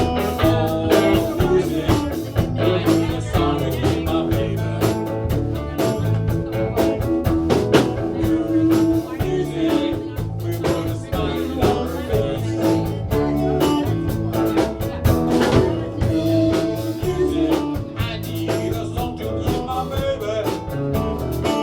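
A band playing a blues-rock instrumental break, with guitar over a steady drum-kit beat.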